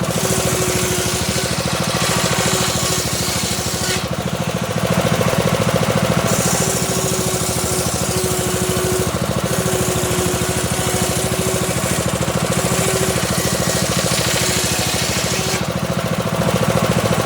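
Homemade circular saw ripping a small teak log, its motor running steadily while the blade's hissing cut comes and goes in long stretches with short breaks between.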